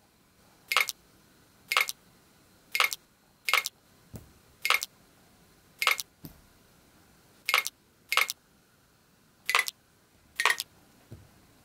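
Sticky jelly frog toy peeling off and slapping back onto window glass as it flips its way down, about ten short sharp ticks roughly a second apart, with a few faint dull thuds among them.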